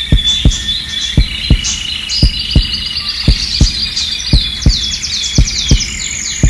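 A slow heartbeat, a double thump about once a second, with birds chirping and trilling over it.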